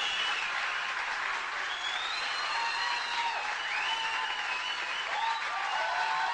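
Audience applauding steadily, with faint voices calling out over the clapping.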